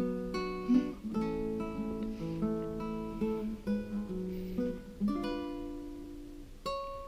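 Background music: a gentle acoustic guitar playing slow plucked notes.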